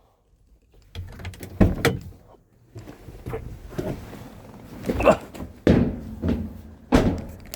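A run of irregular knocks and thuds, beginning about a second in, with rough scraping and rustling between the hits.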